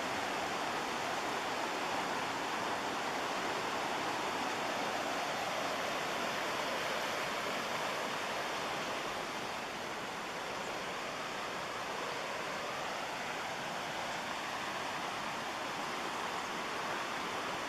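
Steady rush of white water from the McKenzie River and its falls, an even roar without breaks, easing slightly about halfway through.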